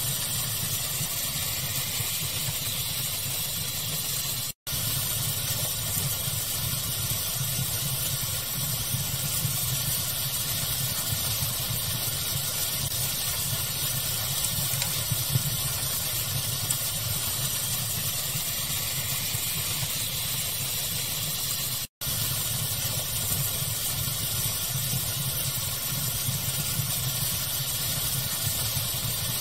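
Steady hissing pink noise mixed with a fire ambience, a few small crackles poking through. The sound cuts out for an instant twice, near the middle of the first third and again about three quarters in.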